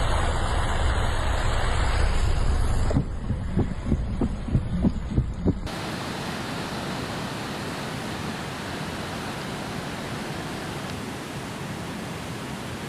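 Storm recording with wind buffeting the microphone and a run of irregular thumps, then, after a sudden cut about six seconds in, a steady even rush of water from heavy rain or floodwater.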